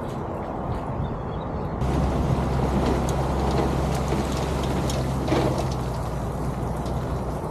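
SUV engine running as it pulls an empty boat trailer up the launch ramp, a steady low hum that grows louder about two seconds in.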